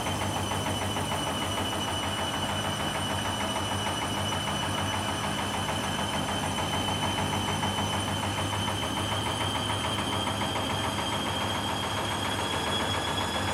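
Hoover Dynamic front-loading washing machine spinning, during the fifth spin of its cotton 60° programme. The motor gives a steady high whine that sags a little and climbs again near the end, over the low hum of the turning drum.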